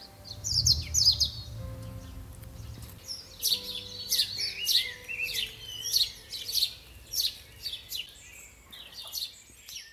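Garden birds singing: a quick cluster of high chirps about half a second in, then a run of separate repeated chirps about every half-second from a few seconds in.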